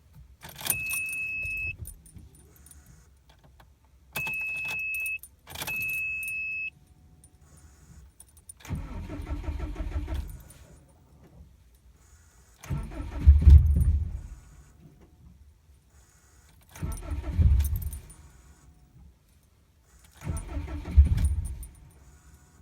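Three short steady warning beeps from the 2007 Subaru Impreza WRX, then its turbocharged flat-four engine is cranked four times on a cold start. Each attempt lasts about two seconds and stops abruptly without settling into a steady idle. Keys jingle at the ignition.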